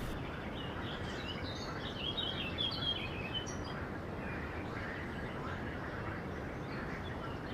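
Small birds chirping over a steady outdoor background noise, the chirps clustering in the first half.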